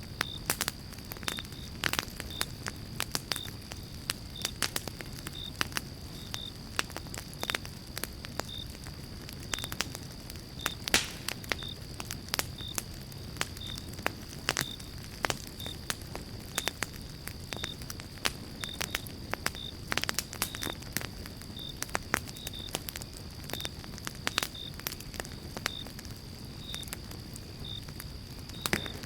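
Campfire of pine logs burning, with irregular sharp crackles and pops over a steady low rumble of the flames. A faint steady high tone and a soft regular tick about once a second run underneath.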